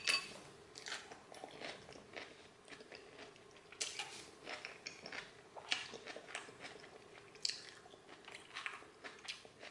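A person chewing a mouthful of salad close to the microphone, mouth closed, with soft, irregular crunches throughout.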